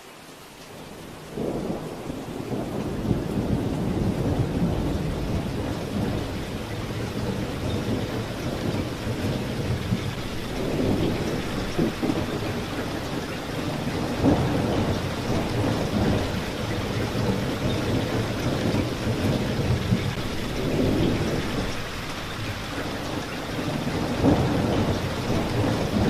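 Steady rain falling, with thunder that rolls in about a second and a half in and keeps rumbling, swelling several times.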